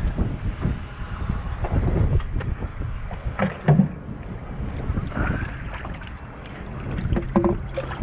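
Wind buffeting the microphone on a boat, a low, uneven rumble, with scattered knocks and rustles.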